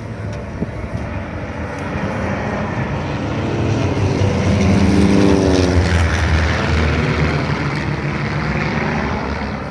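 Formation of homebuilt propeller aircraft flying past, the engine drone swelling to a peak about five seconds in and dropping in pitch as the planes go by, then fading.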